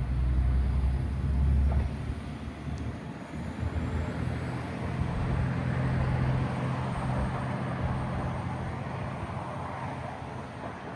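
A train passing, with a steady low hum and rumble that is loudest at the start, swells again around the middle and slowly fades toward the end.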